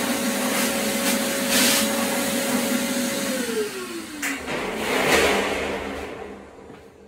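Vacuum cleaner running, then switched off about three seconds in: its motor whine drops in pitch as it spins down and the rush of air fades away.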